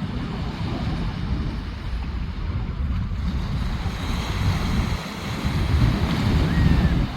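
Sea surf washing on a beach under strong wind buffeting the microphone, the gusty rumble swelling toward the end.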